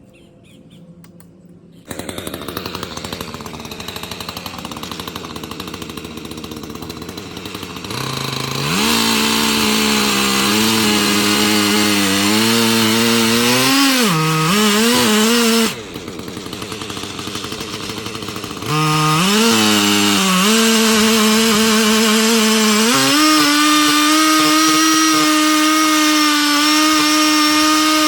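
Husqvarna 3120 XP two-stroke chainsaw idling from about two seconds in, then run up to full throttle while milling an oak log, its pitch sagging under load now and then. It drops back to idle for a few seconds midway, then goes to full throttle again and climbs higher.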